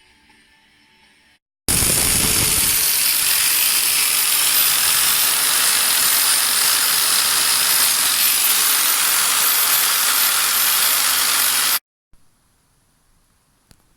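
A power tool running steadily for about ten seconds, loud and hissy, starting and stopping abruptly.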